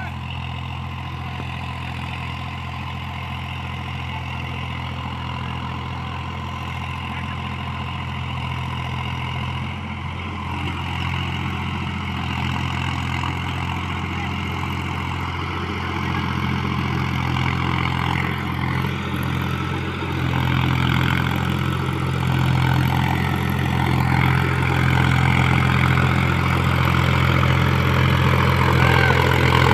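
Mahindra tractor's diesel engine running steadily while pulling a loaded trolley, getting louder about ten seconds in and again about twenty seconds in.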